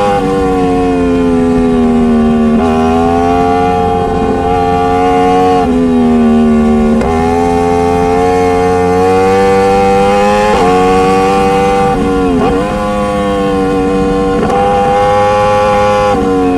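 Motorcycle engine running hard under way, its pitch sinking and climbing with the throttle and jumping abruptly every few seconds as the rider changes gear.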